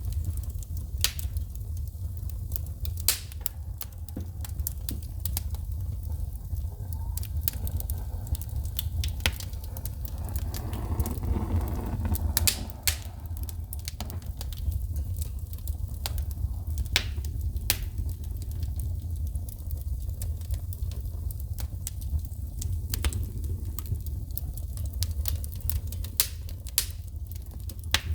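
Wood fire burning in a fireplace, crackling with sharp, irregular pops as sparks shoot from the burning logs, over a steady low rumble.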